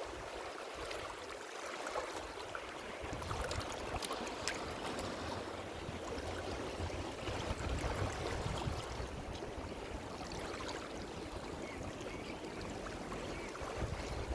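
Ocean surf: a steady wash of water, with a deeper rumble coming in about three seconds in.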